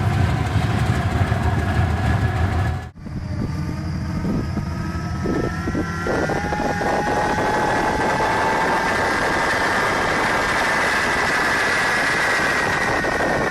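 Diesel locomotive engine running loud while it burns off unburnt fuel built up during idling. About three seconds in it cuts abruptly to a different steady mechanical running sound, with a high whine that rises slowly.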